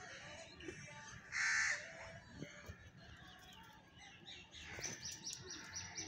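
Birds calling: one short harsh call about a second and a half in, then a rapid run of high chirps near the end.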